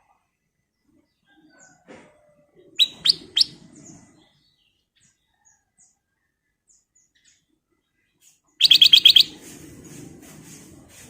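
Kutilang emas (black-crested bulbul) calling: three short, sharp whistled notes about three seconds in, then a rapid chattering run of about seven notes near the end, each burst with a low rustle underneath.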